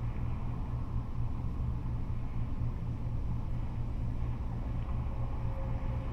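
Steady rumble of freeway traffic, cars and trucks passing. A faint whine appears about five seconds in and slowly falls in pitch.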